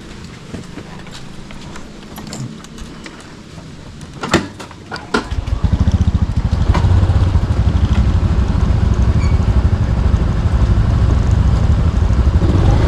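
A couple of sharp clicks, then about five seconds in a motorbike engine starts and keeps running steadily with a fast, low pulsing.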